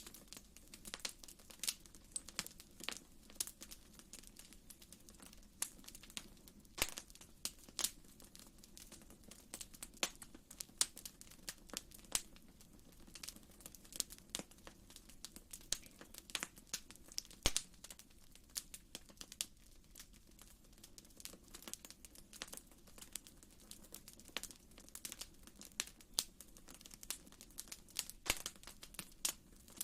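Wood fire in a fireplace crackling: many irregular sharp pops and snaps over a low steady rumble.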